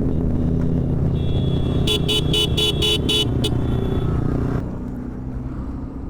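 Motorcycle engine running steadily in road traffic, with a vehicle horn beeping about six times in quick succession around two seconds in. The engine sound drops away somewhat in the last second and a half.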